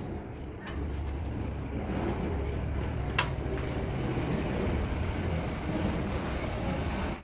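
A small machine running steadily, with a single sharp click about three seconds in.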